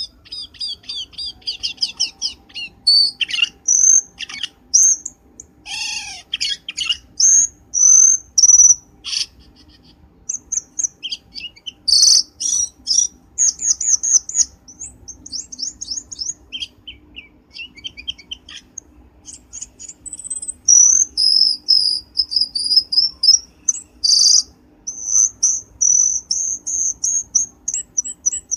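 Cucak keling bird calling: a busy run of rapid chirps, buzzy trills and short high whistles in quick, varied phrases, the kind of call used to lure the bird.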